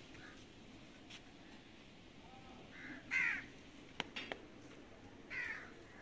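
A bird calling twice, each call sliding downward in pitch, about three seconds in and again near the end. A couple of sharp clicks fall between the calls.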